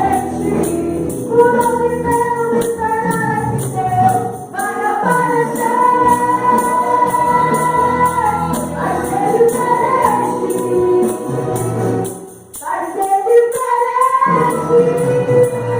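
Voices singing a Pentecostal worship hymn together, with a tambourine shaking a steady beat. The singing breaks off briefly about twelve seconds in, then resumes.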